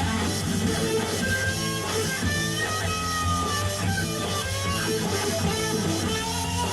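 Rock song playing, led by electric guitar over a steady bass line.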